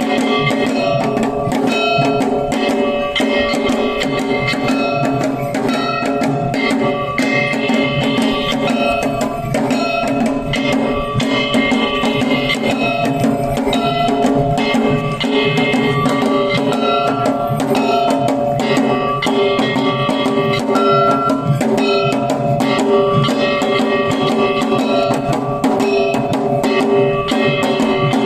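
Kagawa shishimai percussion accompaniment: rapid, continuous drum strokes with steady ringing tones layered over them, keeping up a dense, unbroken rhythm.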